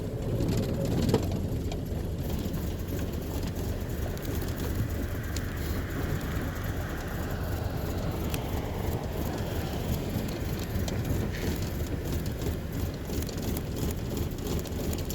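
1961 Land Rover Series II's 2.25-litre four-cylinder petrol engine running steadily as the truck is driven, on its freshly fitted gearbox. A single click comes about a second in, and a faint whine rises and fades in the middle.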